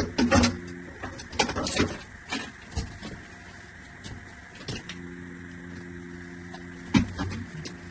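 Repeated knocks, clicks and clunks of plastic drainage pipe fittings being forced and worked together, with a sharp knock about seven seconds in. A steady low hum runs behind them, dropping away about a second in and returning about five seconds in.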